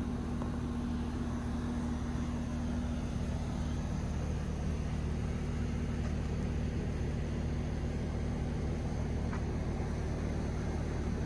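Steady low machine hum with one fixed tone, unchanging throughout.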